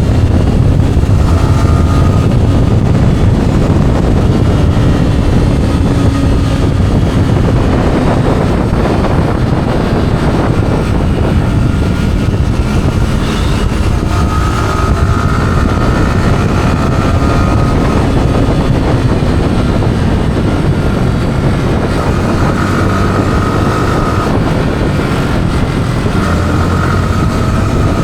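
Yamaha R15's single-cylinder engine on its stock exhaust, heard from the rider's camera while riding, its pitch rising and falling with the throttle, under heavy wind rush on the microphone.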